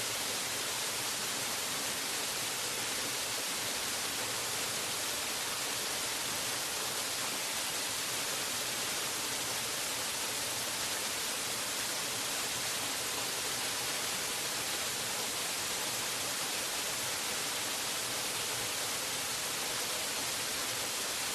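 Waterfall rushing in an even, unbroken hiss, heaviest in the high end, with no change in level.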